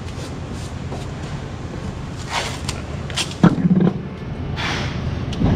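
Hands-on handling noises: a few short scratchy rips and rustles, like tape being pulled and torn, with a sharp thump about a third of the way through and another near the end, over a steady low hum.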